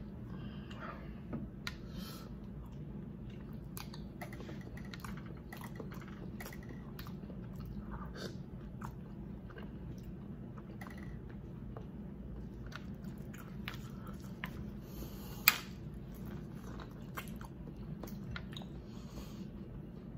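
A person eating close to the microphone, chewing and biting into boiled seafood-boil potatoes and corn on the cob: many small wet mouth clicks and smacks, with one sharp, loud click about three quarters of the way through, over a steady low hum.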